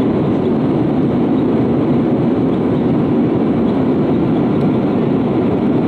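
Steady engine and airflow noise inside the cabin of an Airbus A320-232 with IAE V2500 engines, an even deep rush that does not change.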